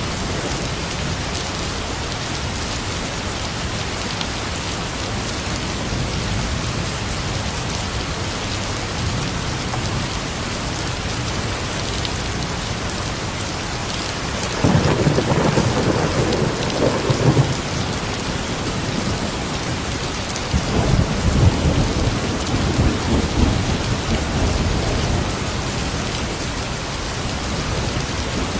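Steady rain falling, with thunder rumbling twice: once about halfway through and again a few seconds later, each lasting a few seconds.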